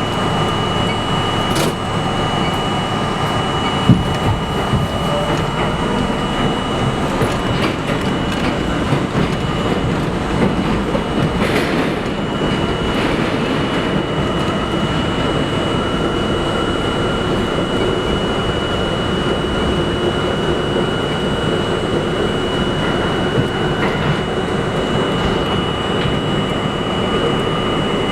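New York City subway train running on the rails: a steady rumble and rattle with a constant high-pitched tone, and one sharp knock about four seconds in.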